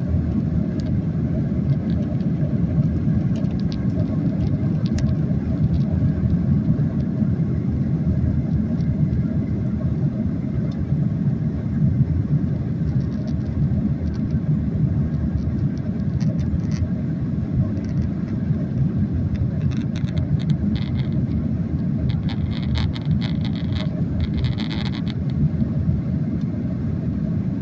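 Steady low rumble of a Boeing 737's engines and airflow heard inside the passenger cabin in flight. A few short, higher-pitched sounds come in about twenty seconds in and again a few seconds later.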